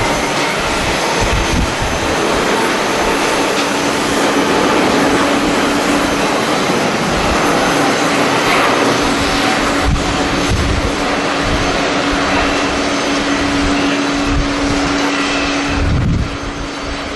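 Jet airliner engines running loud and steady, with a steady low hum in the noise, and irregular low thumps of wind buffeting the microphone.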